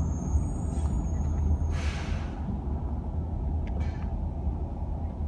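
Garbage truck's diesel engine running steadily, with a short hiss of air about two seconds in.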